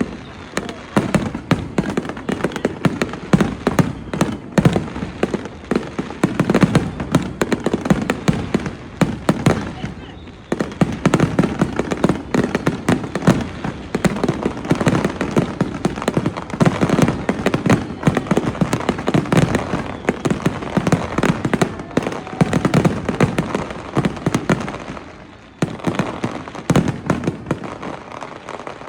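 Aerial fireworks shells bursting in a rapid, continuous barrage, booms and crackles overlapping with hardly a gap. The barrage eases briefly near the end.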